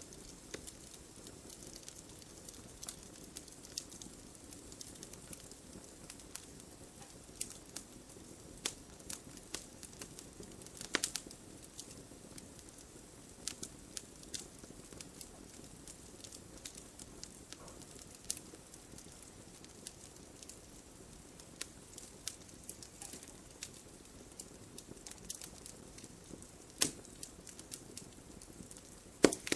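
Campfire burning: irregular crackles and pops over a soft hiss, with a few sharper pops about eleven seconds in and near the end.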